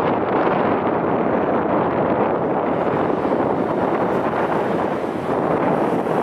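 Strong wind buffeting an unshielded microphone: a loud, steady rushing noise with no engine tone in it.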